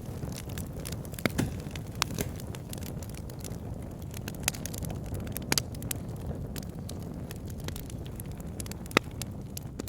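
Logs burning in a log burner: a steady low rumble of flame with irregular crackles and pops scattered through. The sharpest pop comes near the end.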